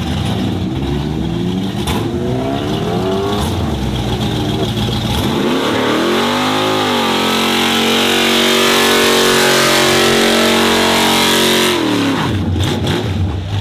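A performance car's engine revving in several short blips, then rising and held at high revs for about five seconds before dropping back near the end.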